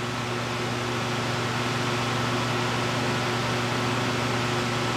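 Steady whirring hum of running electric shop machinery: an even fan-like rush with a constant low hum beneath it.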